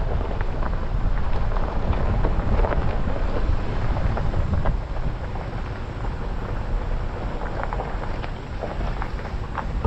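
2024 Jeep Gladiator driving along a backroad: a steady low rumble of tyres and wind, with scattered small sharp ticks.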